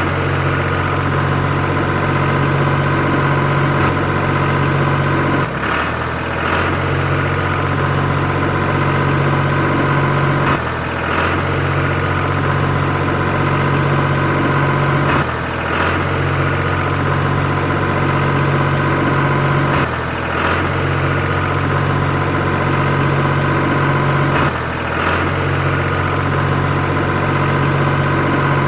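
Engine running steadily at idle with a low drone, dipping briefly about every five seconds.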